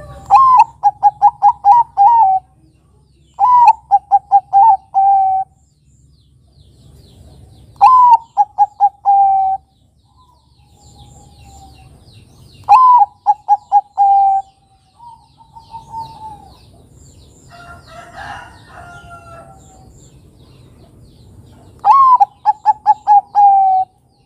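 Zebra dove (perkutut, Bangkok singing strain) cooing in five phrases. Each phrase is a rising opening note, then a quick run of short staccato coos, ending in a longer falling note. Fainter bird calls fill the gaps between phrases.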